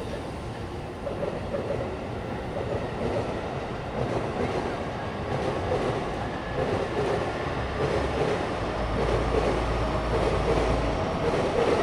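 Train running on the tracks: a steady rumble of wheels on rails that grows gradually louder, with a deeper low rumble joining near the end.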